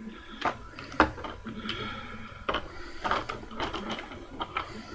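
Small plastic e-juice bottles being handled and set down on a desk: a series of light, irregular clicks and taps with rustling in between.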